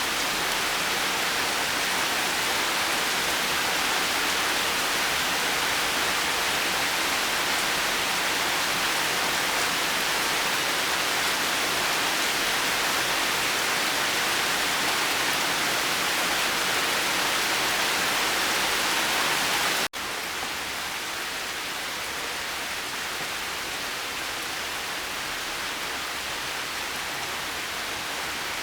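Steady rain falling, an even hiss with no thunder. About two-thirds of the way through it cuts out for an instant and comes back slightly quieter, a splice in the looped recording.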